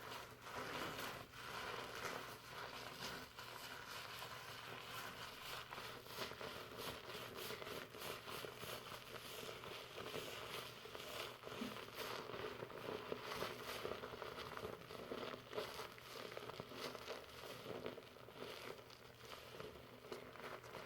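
Fingers working shampoo lather through hair: a continuous crackling, rustling sound of foam bubbles and wet hair, with many small pops.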